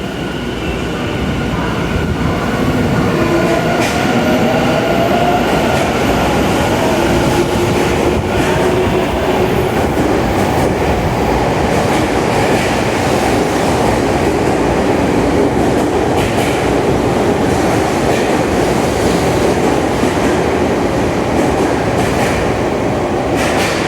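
Tobu 50070-series electric train pulling away: its traction motors whine, rising in pitch as it gathers speed, over loud steady wheel-on-rail rumble with a few clacks over rail joints.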